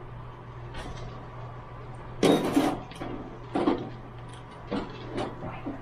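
Kitchen handling clatter: several irregular knocks and clinks of utensils and pans, the loudest about two seconds in, over a steady low hum.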